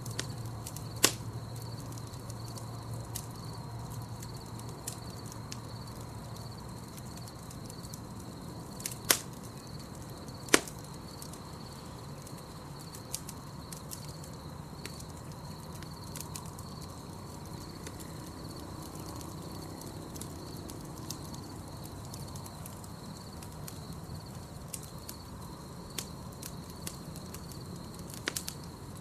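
Campfire crackling, with sharp pops scattered through it, the loudest about a second in and twice around nine to ten seconds in, over a low steady rumble of the flames and a continuous high insect trill.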